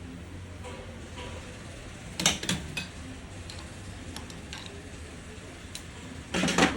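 Scattered sharp clicks and knocks of small hard parts being handled, a few about two seconds in and a louder short clatter near the end, over a low steady hum.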